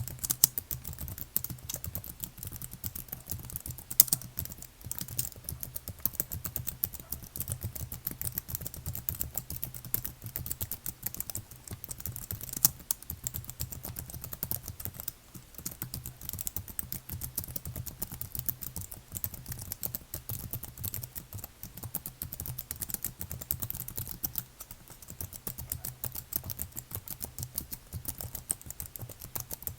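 Computer keyboard typed on continuously and quickly, a dense run of key clicks with a few harder strokes and short pauses.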